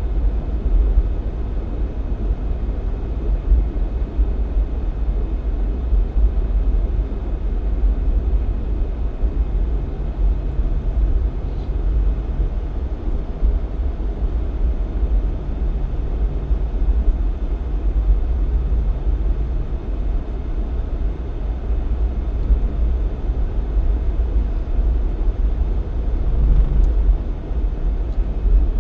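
Jeep Cherokee XJ driving at low speed, a steady low rumble of engine and road noise that holds even throughout.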